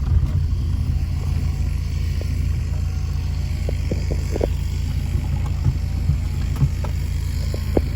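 Car driving, heard from inside the cabin: a steady low rumble of engine and road noise, with a few light clicks or knocks, mostly in the second half.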